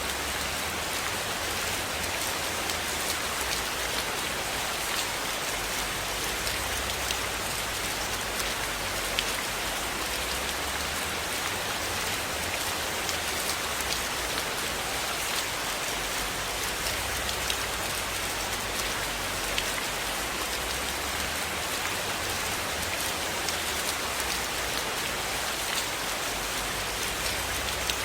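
Steady rain falling, an even hiss dotted with scattered sharp ticks of single drops or small crackles.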